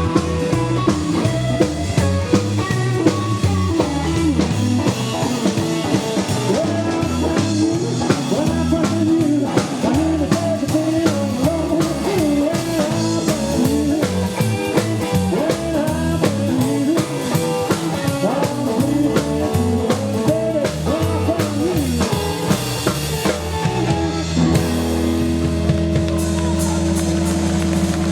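A live rockabilly trio of double bass, electric lead guitar and drum kit playing an up-tempo 1950s-style number. About 24 seconds in, the band lands on a final chord that is held and rings out.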